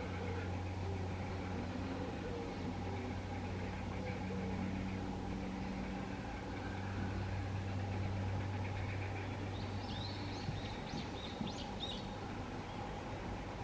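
Cessna 208B Grand Caravan single turboprop flying high overhead, a steady distant drone. A bird chirps a few times near the end.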